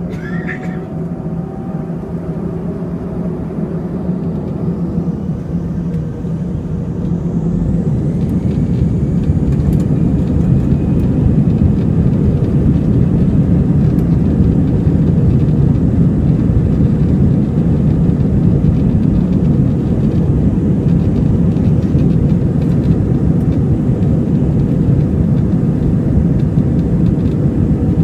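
Airbus A321 jet engines spooling up to takeoff power, with a rising whine and a loudness that builds over the first several seconds. Then comes a loud, steady rumble as the aircraft rolls down the runway.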